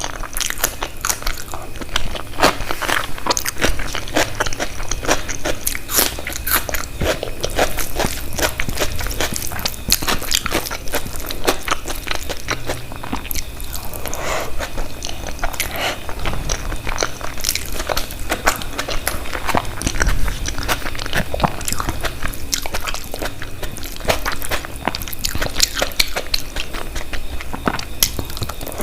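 Close-miked eating: mouthfuls bitten and chewed, with a steady stream of irregular crunchy clicks throughout.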